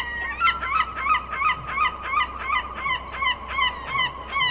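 Bird calling loudly in a fast, regular series of short calls, about three a second, each falling in pitch.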